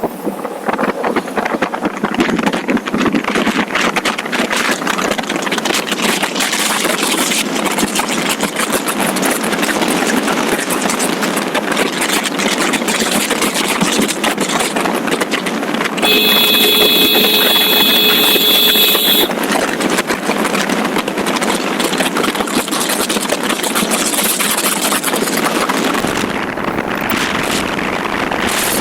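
Motorcycle riding at speed: a steady rush of wind and road noise over the microphone with engine sound underneath. About two-thirds of the way in, a steady horn-like tone sounds for about three seconds.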